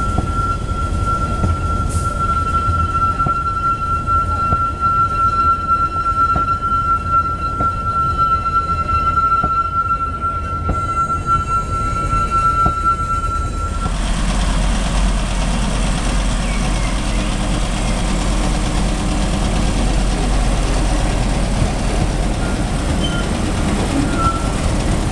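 Park-railway train of open carriages rolling past on curved track, with a steady high-pitched wheel squeal over the rumble of the wheels. About halfway through, the sound switches abruptly to a small diesel locomotive running with its train, a deeper low rumble without the squeal.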